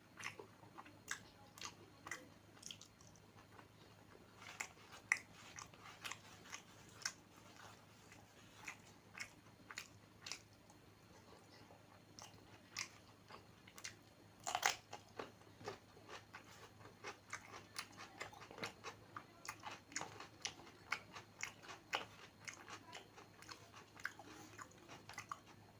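A person chewing a mouthful of food, with irregular wet mouth clicks and crunching bites several times a second and one louder crunch near the middle.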